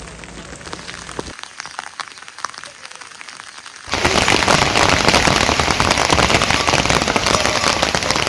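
Heavy rain pattering down, a dense hiss of many fine drop ticks. About four seconds in it turns abruptly much louder and denser.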